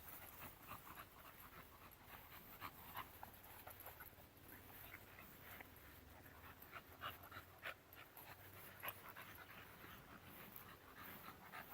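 Faint panting from a bully dog, with quick short breaths.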